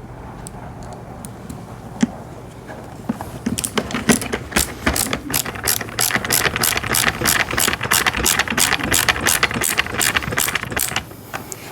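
A screw being driven in with a screwdriver: a few seconds in, a steady run of sharp clicks begins, about three or four a second, and stops near the end.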